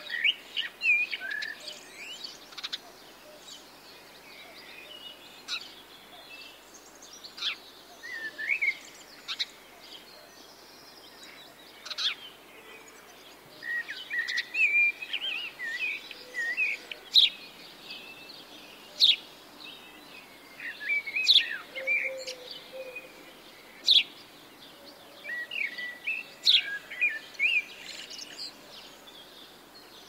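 Birds calling: an irregular run of short, varied chirps and whistles with some sharp, brief high notes, over a faint steady hiss.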